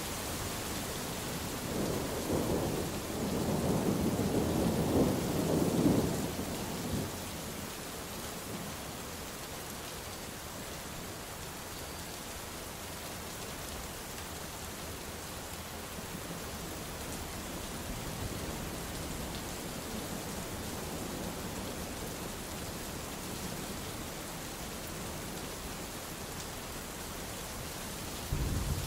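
Steady heavy rain with a rumble of thunder that builds and fades a few seconds in, then rain alone until another thunder rumble begins near the end.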